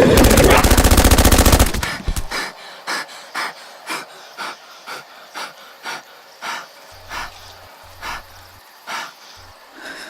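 A loud burst of rapid automatic gunfire, like a machine gun, cuts off abruptly about two seconds in. A steady run of short, soft sounds follows at about two a second, much quieter than the gunfire.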